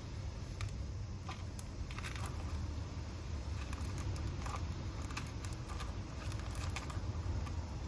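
Light, scattered crackles and rustles of hands working potting soil and succulent plants, over a steady low rumble.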